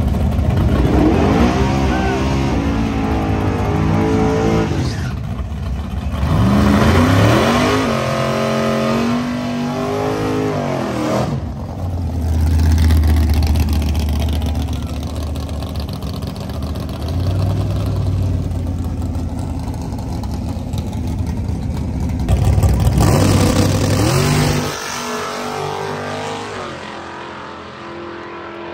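Drag-racing truck engines accelerating hard at wide-open throttle, the pitch climbing and dropping back at each gear shift, in several runs with a steadier low engine drone in between; the last run cuts off suddenly about 25 seconds in.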